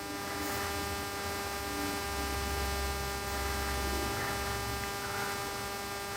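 Steady electrical mains hum with many overtones over a faint hiss. A low rumble swells about two seconds in and fades about five seconds in.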